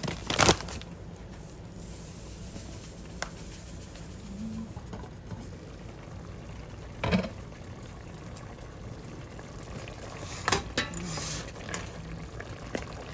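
Food simmering in a pot on the stove, a steady low bubbling, with a few sharp knocks of a utensil against the pot.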